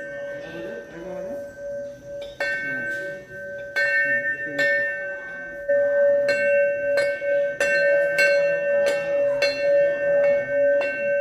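A metal bell struck over and over at a steady, fairly quick pace, each strike adding to one ringing tone that carries on throughout, with faint voices underneath.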